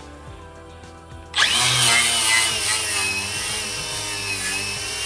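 A power tool fitted with a large wire wheel starts suddenly about a second and a half in and runs, with a wavering high whine, scouring paint off the steel floor area to prep it for welding.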